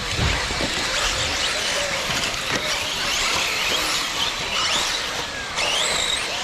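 Radio-controlled off-road cars' electric motors whining, rising and falling in pitch as they speed up and slow down, over a steady hiss, with a few low thumps near the start.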